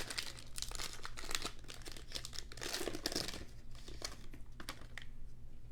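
An NBA Hoops trading-card pack wrapper crinkling and tearing as it is opened, a dense crackle that dies down about four and a half seconds in.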